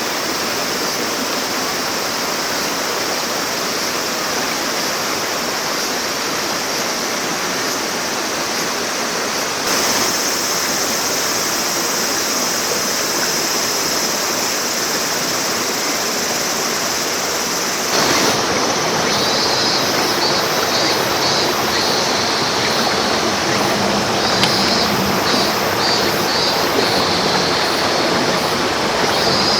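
Clear mountain stream rushing steadily over rocks, its sound shifting abruptly twice, about a third and about two thirds of the way in. In the last part a faint, rhythmic high pulsing joins the water.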